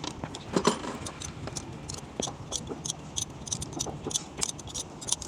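Small metal clicks and clinks, irregular and several a second, from work on an engine's rocker assembly.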